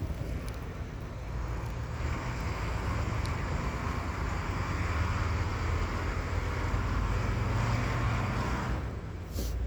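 Strong wind blowing in a long gust, rumbling on the microphone with a rising hiss of blown snow that swells about two seconds in and eases near the end, followed by a short scrape.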